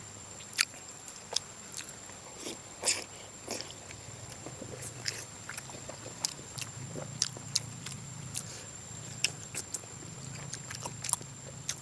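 A person eating braised pork close to the microphone: chewing with irregular sharp smacks and clicks of the mouth.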